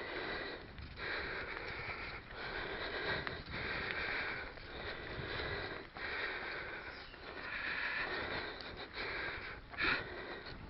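A cyclist breathing hard while riding, long heavy breaths coming about every second and a half.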